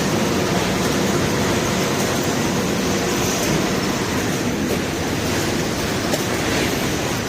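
FP6000cs automatic shrink-wrapping machine running: a steady mechanical rushing noise from its shrink-tunnel blower and conveyor, with a few faint clicks.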